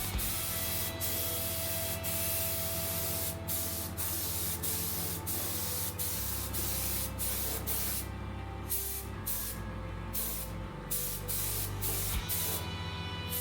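Paint being sprayed in long hissing passes, cut off briefly several times as the spray stops and starts again, most often in the later half.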